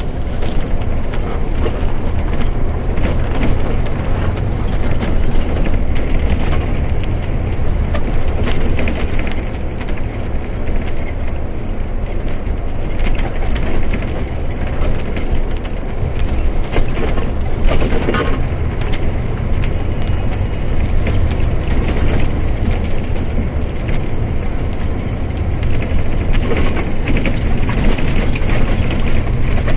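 Mercedes-Benz OF-1722M bus running, a steady heavy diesel rumble with road and chassis noise and a short rattle about halfway through.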